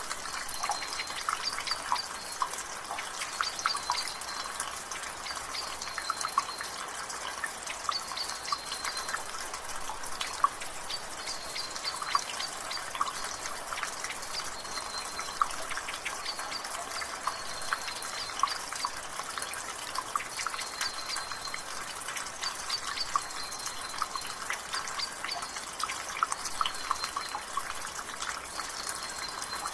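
Rainwater dripping and splashing from a gutter, many irregular drips each second over the soft hiss of drizzle. A bird repeats a short high chirp every second or two in the background.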